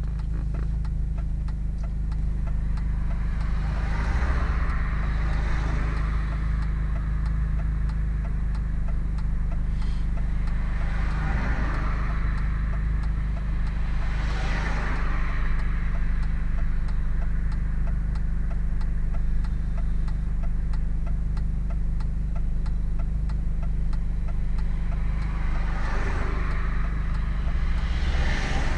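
Hartge MINI engine with its Hayward & Scott exhaust running with a steady low drone. A rushing noise swells up and fades about four times, and there is faint regular ticking throughout.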